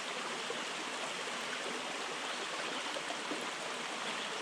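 Small spring-fed mountain stream running, a steady, even rush of water.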